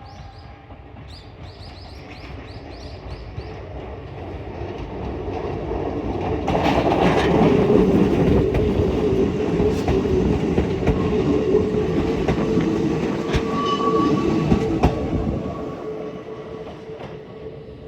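Hakone Tozan Railway 3000/3100-series three-car electric train passing over a level crossing: it grows louder, is loudest through the middle with wheels clicking over rail joints, and fades near the end. A level crossing alarm rings rapidly in the first few seconds before the train drowns it.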